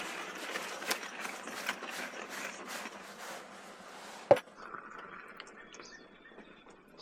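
A Swedish fire torch, a split log burning from inside, crackling and hissing with many small pops. About four seconds in there is one sharp knock, the loudest sound, and after it the fire sounds fainter.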